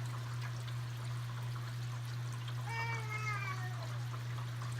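Steady rush of flowing floodwater, with one short cry, falling slightly in pitch, about three seconds in.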